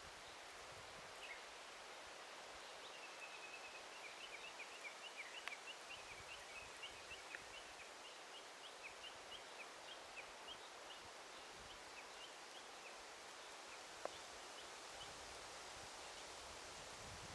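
A bird calling in a long run of short, high chirps, several a second, coming thickest a few seconds in and thinning out near the end. Under it is a faint, steady hiss of forest ambience, and there is a single sharp click about 14 seconds in.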